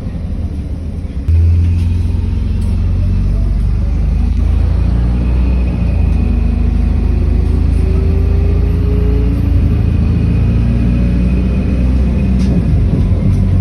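City bus engine heard from inside the passenger cabin, a heavy low rumble that gets suddenly louder about a second in as the bus pulls away under power. A faint whine rises in pitch partway through as the bus gathers speed.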